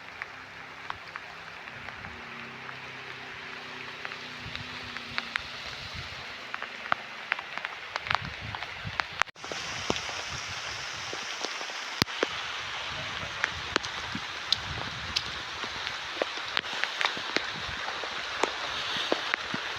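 Steady rain falling, with many sharp clicks of drops striking close by. It gets louder suddenly about nine seconds in.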